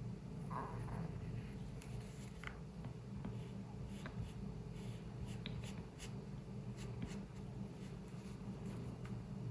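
Drawing on paper by hand: short, scattered scratching strokes of the drawing tool on the page. A steady low hum runs underneath.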